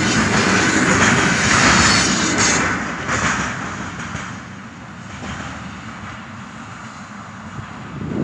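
Container wagons of a heavy freight train rolling past over the rails, a loud rushing rumble that fades quickly about three seconds in as the end of the train goes by and draws away.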